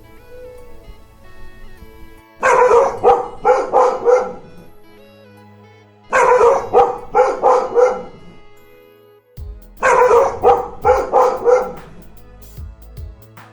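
A dog barking in three quick runs of five or six barks each, over steady background music.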